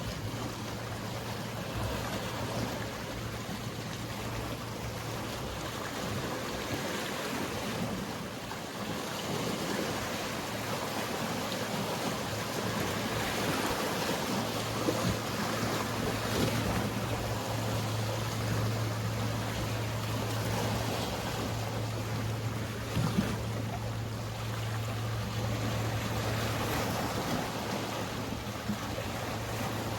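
Sea waves washing with a steady low boat-engine hum, which grows louder about halfway through. A single short knock comes about three-quarters of the way in.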